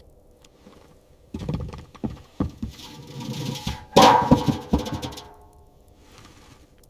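A run of knocks and thuds, irregular, with the loudest blow about four seconds in leaving a short ringing tone.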